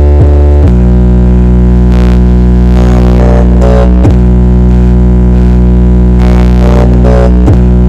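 Giant stacked sound system playing a sound check at very close range: sustained, droning synth bass tones held steady and very loud, with a quick downward swoop and a change of note about a second in, again about halfway, and once more near the end.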